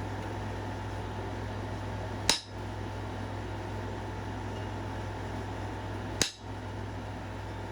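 Two sharp clicks of a stone point being worked, one about two seconds in and another about six seconds in, as a flintknapper tries to take off a step fracture; the fracture stays in.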